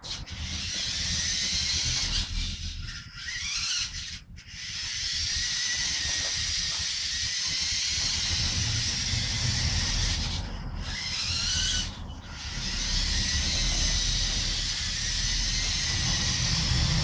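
LEGO Power Functions electric motor and plastic Technic gears of a remote-controlled car running with a high whine and hissing rasp. It cuts out briefly about four and twelve seconds in, and rises in pitch as it speeds up again each time.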